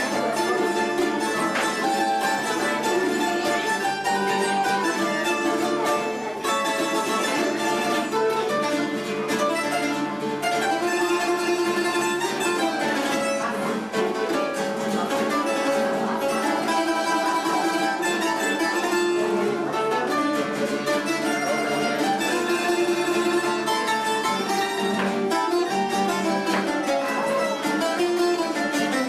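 A plucked string trio of bandurria, laúd and guitar playing a Cádiz carnival coro tango: a busy, steady melody of quick plucked notes over guitar chords, with no singing.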